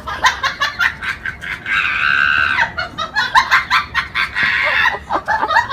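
An animal giving a rapid run of short clucking calls, several a second, with two longer drawn-out calls in between.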